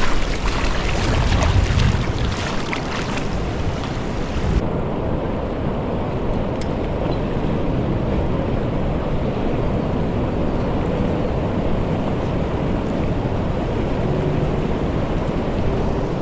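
Wind buffeting the microphone and water spray splashing during a fast dinghy ride across open water. About four and a half seconds in, the sound changes abruptly to a steadier, duller rush of wind and water.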